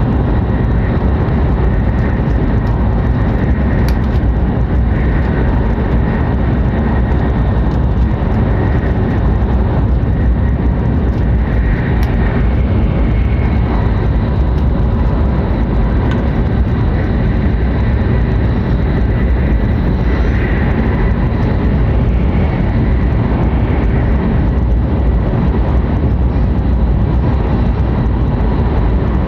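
Steady running noise inside the cabin of a Hokuriku Shinkansen E7/W7-series train at speed: a deep, even rumble from wheels, rails and air, with two faint ticks.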